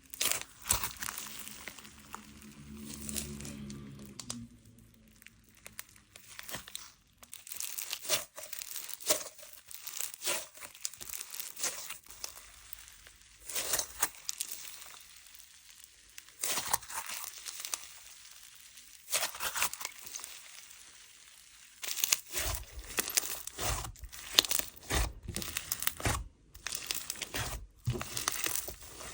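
Butter-fizz slime being handled, stretched and pressed, giving irregular clusters of sticky clicks and pops with short pauses between.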